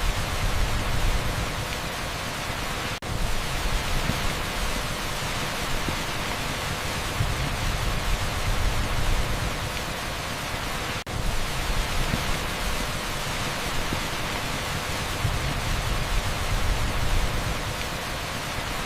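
Heavy rain pouring onto an asphalt street: a dense, steady hiss with a strong low rumble underneath. It briefly drops out twice, about 3 and 11 seconds in.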